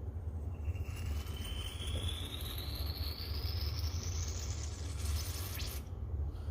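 Steady low rumble, with a faint whistle rising in pitch over about four seconds and a brief hiss about five seconds in.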